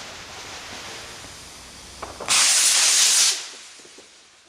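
Homemade black-powder rocket motor launching: a loud rushing hiss about two seconds in that lasts about a second, then fades away as the rocket climbs.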